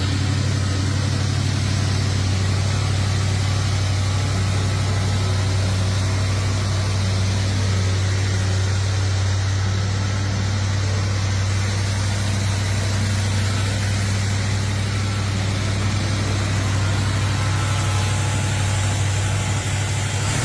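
A car engine idling steadily, with an even low rumble.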